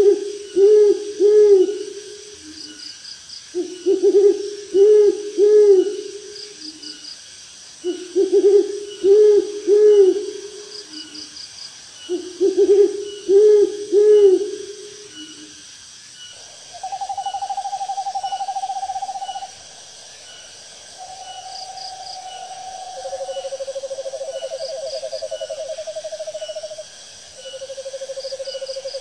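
Owl calls: for the first half, bouts of several low hoots repeating about every four seconds, then long, steady, quavering trills of a few seconds each at slightly different pitches. Insects chirp faintly and evenly in the background.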